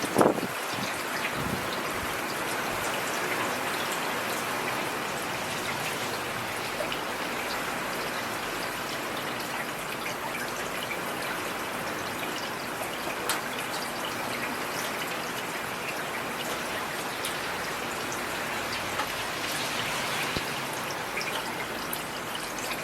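Heavy rain falling, a steady hiss with scattered drop ticks, with a brief low thump right at the start.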